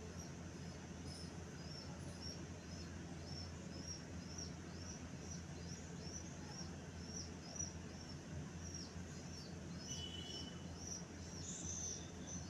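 A bird chirping: short, high notes repeated about twice a second, over a steady low hum.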